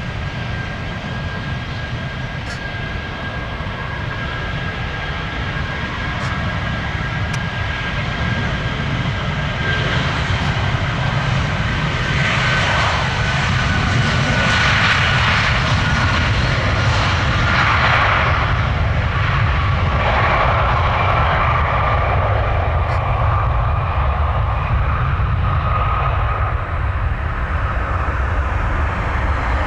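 Jet airliner engines passing close by, the sound growing louder over the first half and then holding, with a high whine that slowly drops in pitch.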